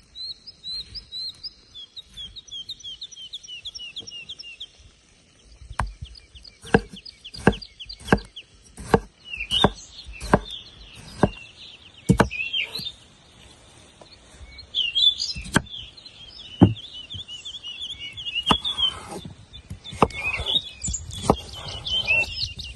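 Songbirds chirping in short repeated phrases throughout. From about six seconds in, a series of sharp, irregular knocks cuts across the birdsong, each a single hard strike.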